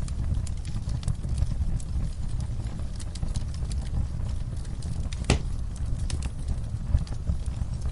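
Wood fire crackling in a fireplace: a steady low rumble under frequent sharp pops and snaps, with one louder pop about five seconds in.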